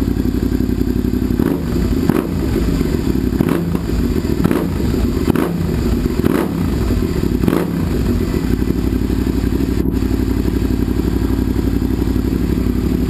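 Suzuki SV650S's fuel-injected 90-degree V-twin idling with a deep rumble, blipped about seven times in quick throttle revs over several seconds, then settling back to a steady idle.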